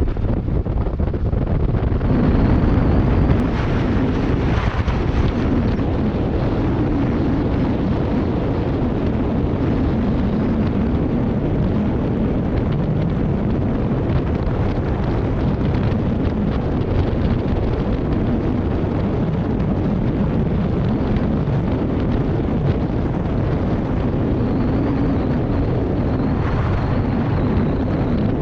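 Kawasaki Versys 650 parallel-twin motorcycle engine running on the move, its pitch wavering a little with speed, under heavy wind buffeting on the microphone.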